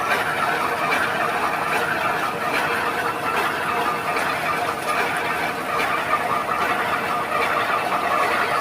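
A Tata Signa heavy truck's diesel engine running steadily with a dense mechanical clatter.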